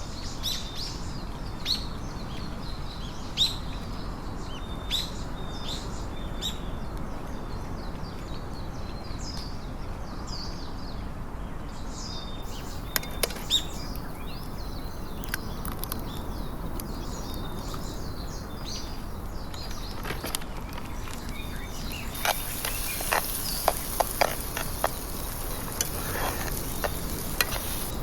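Small birds chirping repeatedly over steady outdoor background noise. About three-quarters of the way in, a high steady hiss starts, with scattered sharp clicks and taps.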